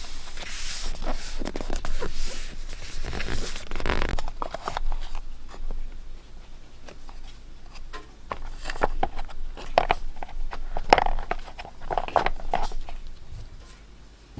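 Paper being handled close to the microphone for scrapbooking: a continuous rasping rustle for about the first four seconds, then scattered light taps and short crinkles.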